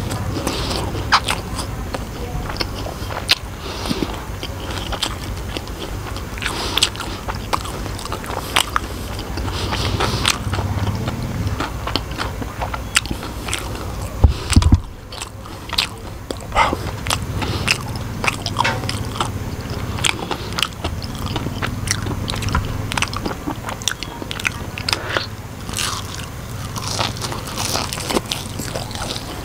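A person biting and chewing crispy battered fried mushrooms coated in chili salt, a steady run of crunching and crackling. A single dull thump about halfway through.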